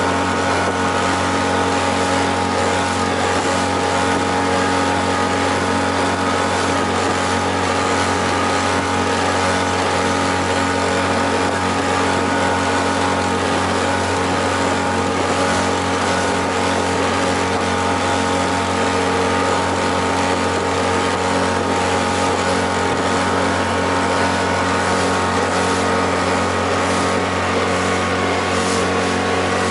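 Freshly overhauled outboard motor running steadily at cruising speed, pushing the boat along.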